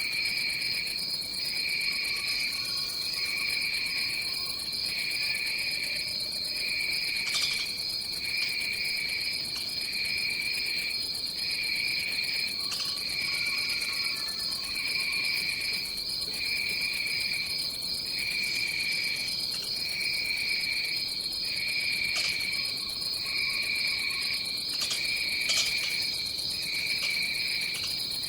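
Rainforest insect chorus: a steady high, shrill trill with a lower chirp pulsing about once a second, and a few faint lower calls now and then in the background.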